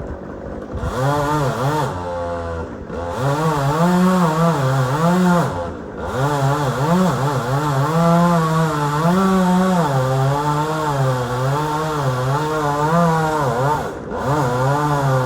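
Chainsaw cutting post oak, its engine pitch wavering up and down as the chain bites under load, with a few brief drops in revs.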